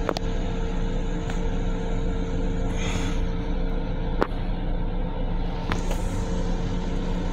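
Steady rumble of an M7 electric railcar heard from inside its small restroom, with a constant low drone and a higher steady hum running under it, and a few faint clicks and rattles.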